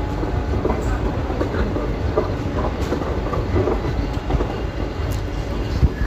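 Talgo train rolling past at close range: a steady rumble of wheels on the rails with faint scattered clicks.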